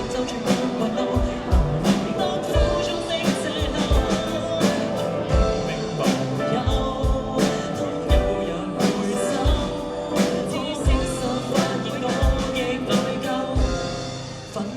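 Live band playing an instrumental passage of a song, with a drum kit keeping a steady beat under keyboard.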